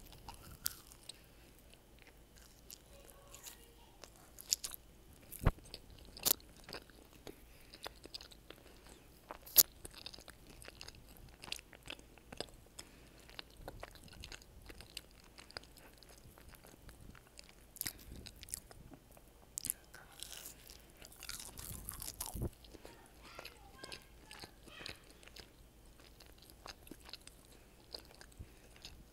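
Close-up mouth sounds of biting and chewing breaded, fried cheese sticks and jalapeño poppers: scattered sharp crackles of the crumb coating and soft wet chewing, with a denser run of crunching about two-thirds of the way through. The sound is picked up by a wired earphone microphone held right at the mouth.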